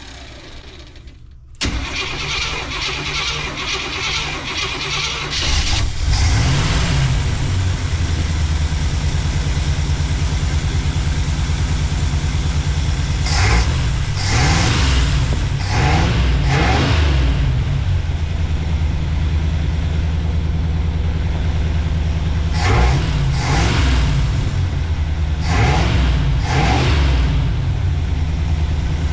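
Small-block Chevy 350 V8 with a newly fitted Edelbrock 600 cfm carburetor being started: about two seconds in the starter cranks it, it catches a few seconds later and settles into a steady idle. The engine is revved up and back down several times in three groups of throttle blips.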